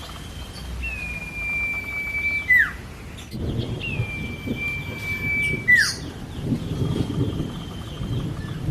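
Common iora whistling: a long, level note that ends in a sharp downward swoop, given twice. A low rumbling noise runs underneath from about a third of the way in.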